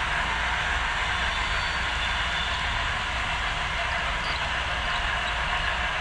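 HO scale model train running steadily along the layout's track, giving a continuous even whir of motor and wheels on rail.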